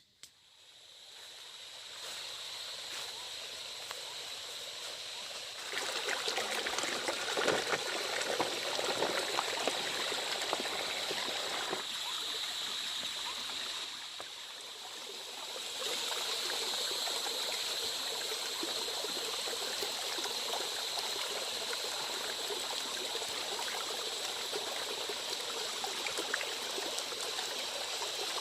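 Heavy rain falling as a steady hiss. It swells in over the first couple of seconds and gets louder about six seconds in.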